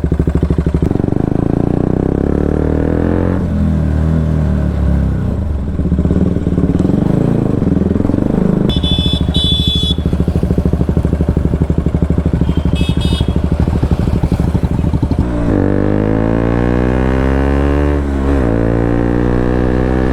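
KTM RC 200's single-cylinder engine running through an Akrapovic full-system exhaust while riding, then accelerating from about three-quarters of the way in: the pitch climbs, drops at a gear change, and climbs again. Short high beeps, like a horn, sound twice near the middle.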